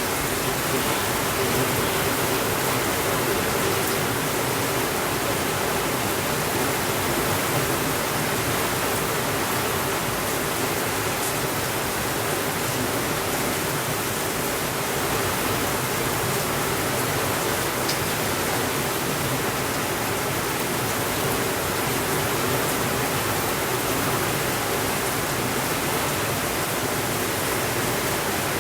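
Steady rainfall, an even hiss that holds at one level with no thunder.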